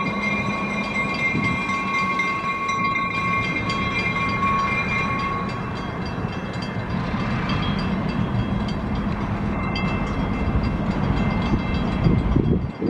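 Passing train: a steady rumble of wheels on the rails, with several steady high-pitched tones that fade out about halfway through and some louder low thumps near the end.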